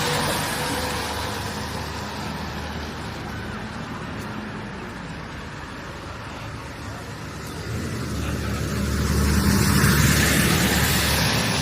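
Road traffic passing close by: a vehicle's noise fades away at the start, then another vehicle approaches from about eight seconds in with a low engine hum, loudest near ten seconds.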